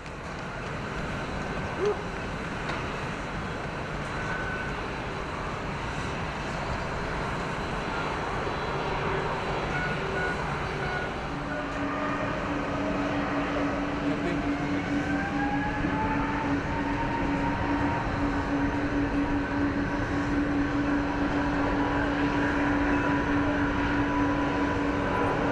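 Jet airliner engines running, a steady noise that grows gradually louder. About eleven seconds in a steady tone joins it, followed by a whine that rises in pitch.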